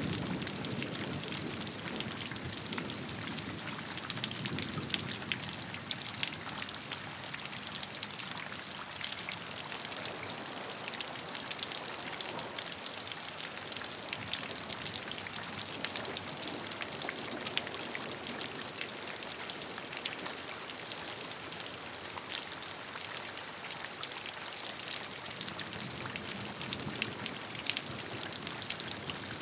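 Steady rain, an even hiss full of many separate drops ticking, with a low rumble dying away over the first few seconds.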